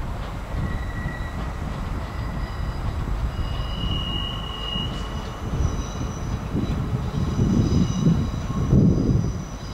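A train moving on the rails, its wheels squealing in thin high tones over a low rumble. The rumble grows louder near the end.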